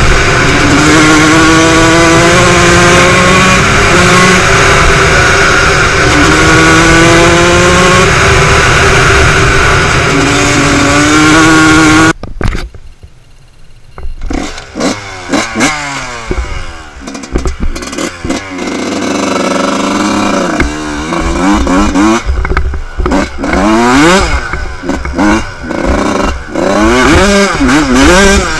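Motocross bike engines. For about twelve seconds one bike runs loud at high, near-steady revs, then stops suddenly. After a short lull, engines rev up and down again and again, the pitch rising and falling every second or so.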